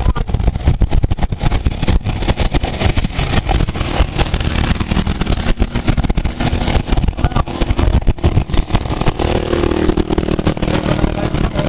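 Heavy wind buffeting on the microphone of a camera riding with the race, over road noise. About nine seconds in, a motor vehicle's steady engine tone joins it.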